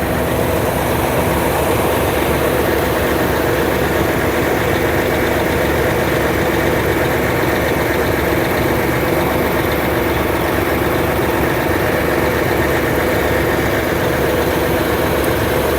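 Heavy diesel engines running steadily: a concrete mixer truck discharging its load into a concrete pump.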